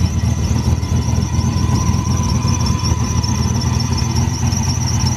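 Turbocharged LS V8 idling steadily: a low rumble with a steady high-pitched whine riding over it.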